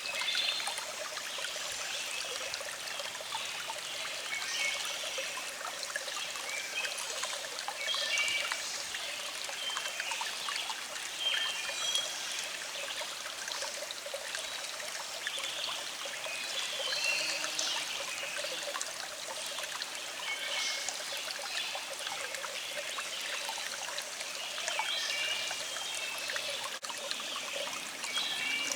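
A small stream trickling and babbling steadily over rocks, with birds singing in the background.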